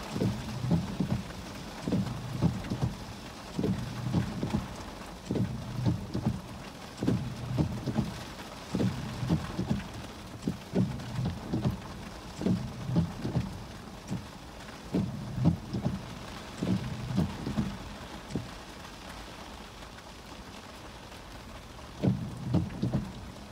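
Heavy rain beating on a car's roof and windshield, a steady hiss with frequent irregular clusters of low thumps. The thumps pause for a few seconds near the end, then come once more.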